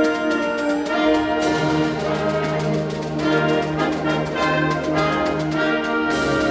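Concert band playing an overture, brass to the fore with trombones and trumpets over sustained low notes; the low bass line comes in about a second and a half in.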